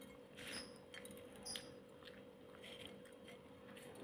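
Faint chewing of fried salted fish, a few soft mouth sounds spread over the few seconds, over a faint steady hum.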